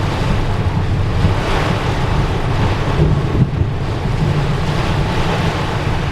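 Heavy storm rain beating steadily on a car driving through a thunderstorm core, mixed with tyre and wind noise, with a few brief knocks.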